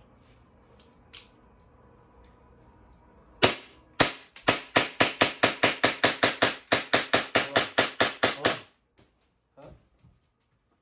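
Airsoft pistol firing: two single shots about three and a half seconds in, then a rapid string of about twenty shots at about five a second that stops suddenly about four seconds later.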